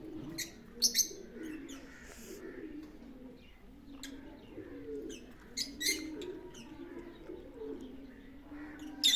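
Pigeons cooing without a break in a low warble, while short, sharp high chirps from small parrots cut in a few times, loudest about a second in and at the very end.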